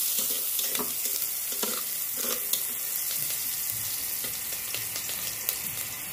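Ginger, garlic and onion sizzling as they sauté in a metal pot on a gas burner, with a metal spatula scraping through them in regular strokes during the first half.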